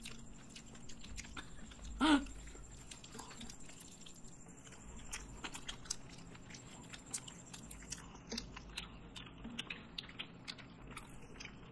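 Close-up eating sounds: people chewing and biting into fried chicken drumsticks and mouthfuls of noodles, with many small wet clicks and smacks. A brief voiced sound about two seconds in.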